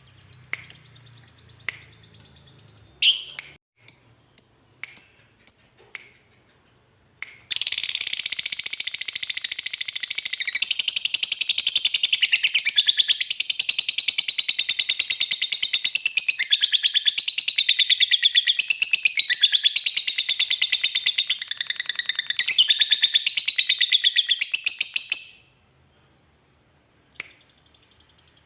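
Lovebird giving its long 'ngekek' chatter: a fast, unbroken run of shrill notes lasting about eighteen seconds that stops abruptly, with a few scattered short chirps and clicks before it and a couple after.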